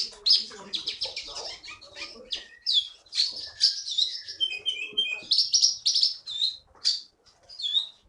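A caged konin songbird singing nonstop: quick bursts of high chirps, trills and short whistled phrases, one after another with only brief breaks.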